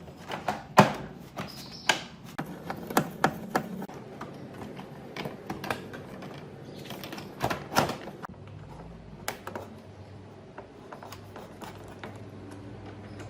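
Irregular sharp clicks and knocks of tools and metal parts being handled, the loudest about a second in, with small clusters of taps after it.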